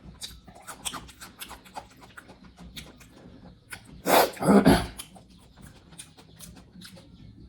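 Close-miked chewing and mouth smacking of someone eating pork curry with rice: many short wet clicks. About four seconds in there is a loud burst of sound, lasting under a second.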